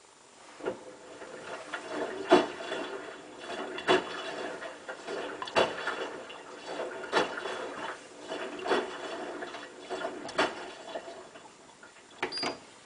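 Hotpoint WT960 washing machine's drum turning on its motor, a steady mechanical hum with a knock about every second and a half. It starts just under a second in and stops near the end, followed by two quick clicks.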